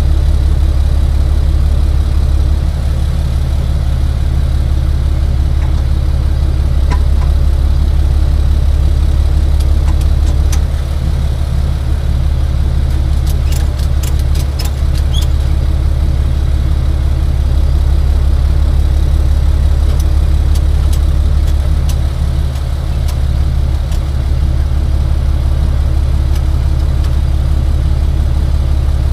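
Tow truck engine running steadily with a deep, even drone. A quick run of light clicks comes about halfway through.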